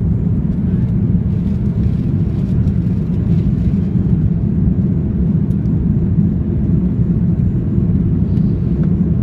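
Steady low rumble of a Lufthansa airliner's engines and airflow as it approaches to land.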